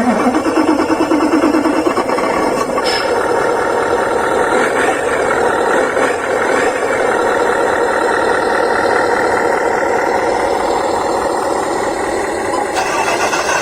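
Radio-controlled model excavator working: a steady whirring and grinding of its small electric motors and gears.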